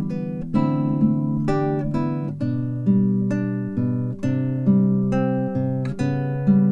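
Background music: acoustic guitar playing picked and strummed chords at an unhurried pace.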